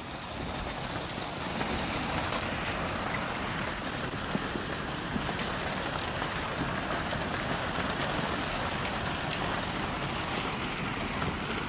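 Heavy hail falling and striking hard surfaces, a dense steady clatter with sharper individual hits standing out here and there.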